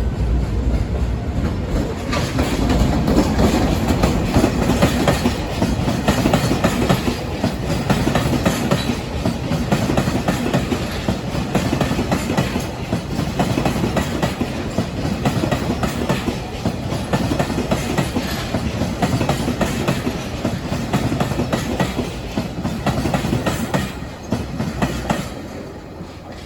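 A train running along the track at close range, its wheels clattering over the rail joints without a break, until the noise drops away about a second before the end.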